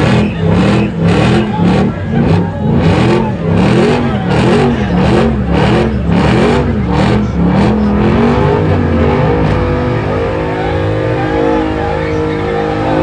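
A vehicle engine revved in quick repeated blips, its pitch rising and falling about twice a second, then held at a steady higher speed for the last few seconds.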